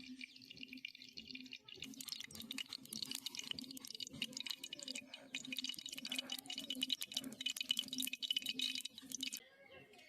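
Hot cooking oil in a pan on a wood-fired clay stove, spitting and crackling with dense rapid pops. The pops begin about two seconds in and stop abruptly near the end.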